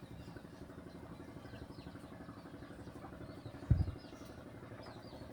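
Chicken curry cooking faintly in a pan as it is stirred, a quiet steady sizzle with one dull knock of the spatula against the pan about two-thirds of the way through.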